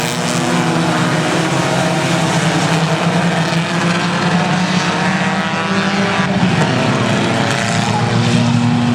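Several four-cylinder stock cars racing on an oval track, their engines running hard together in a steady, loud roar with overlapping engine notes.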